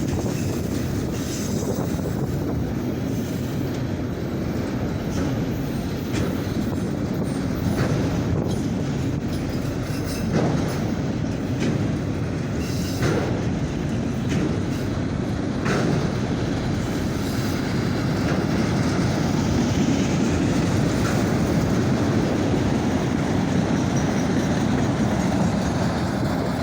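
Freight train of auto rack cars rolling steadily past: a continuous rumble of steel wheels on rail, with scattered clacks over the rail joints.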